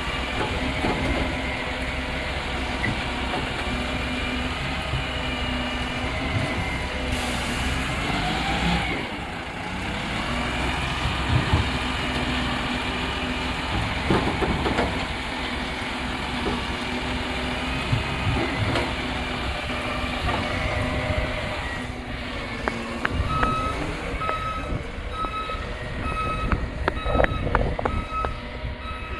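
Rubbish truck's diesel engine running steadily, with a short hiss of air about seven seconds in. Near the end its reversing beeper starts, beeping about once a second.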